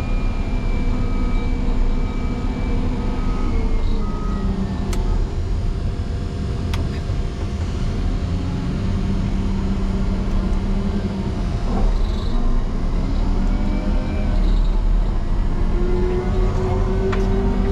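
Motor grader's diesel engine running steadily under load. Its pitch drops a few seconds in, then climbs again near the end.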